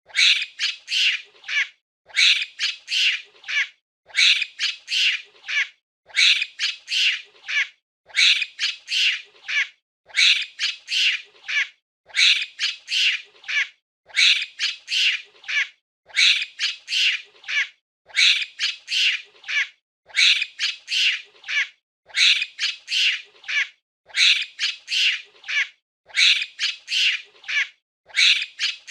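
Monkey calls: a burst of four or five short, high-pitched squawking calls, repeated in the same pattern about every two seconds.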